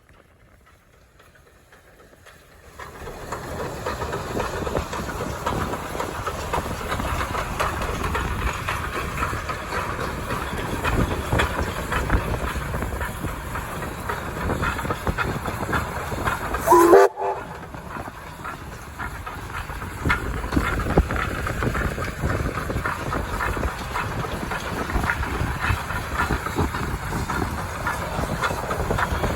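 Steam locomotive SAR T251 and its train running on the line, starting up about three seconds in, with steady wheel clatter and rapid clicks over the rails. A little over halfway a short whistle sounds, rising in pitch, and is cut off abruptly by a brief dropout before the running sound returns.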